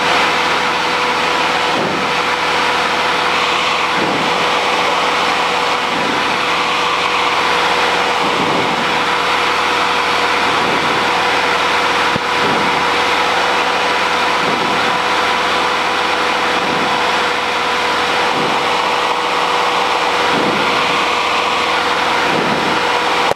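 Cessna 150's four-cylinder Continental O-200 engine and propeller running steadily in flight, heard from inside the cabin, with a constant drone.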